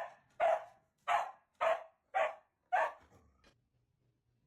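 Dog barking in a steady run of loud barks, nearly two a second, stopping about three seconds in.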